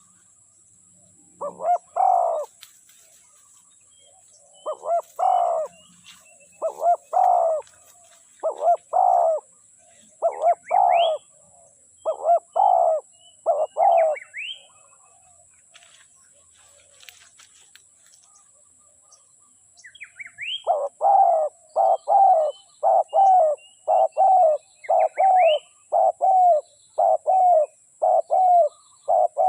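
Spotted dove cooing: a run of low coos in phrases every one and a half to two seconds, a pause of several seconds, then a faster run of coos at about two a second. Small birds give short rising chirps in between.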